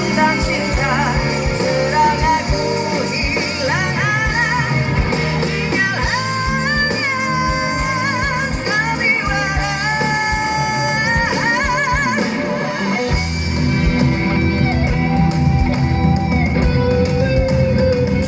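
Live rock band playing on stage, guitar and drums under a held, wavering lead melody. The band grows fuller and a little louder about two-thirds of the way through.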